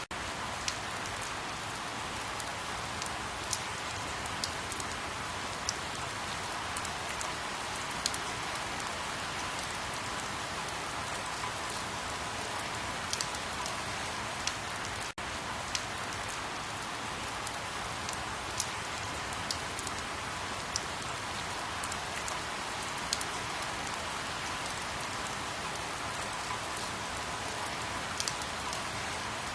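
Steady rain falling on a surface, with scattered sharp drop ticks. A momentary dropout comes about halfway through.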